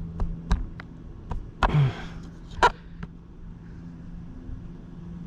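Sharp, irregular knocks as a flat sharp-edged tool is struck into the plastic of a solar pool-heating panel to cut out a leaking section, about eight hits with the loudest near the middle. A faint steady hum runs underneath.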